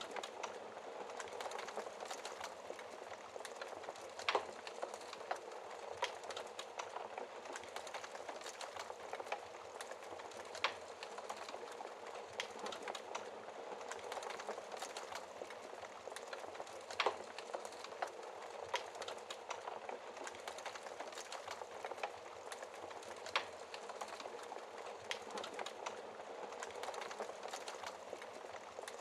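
Wood fire crackling in a fireplace: a steady hiss and soft crackle with sharp pops at irregular intervals, several seconds apart.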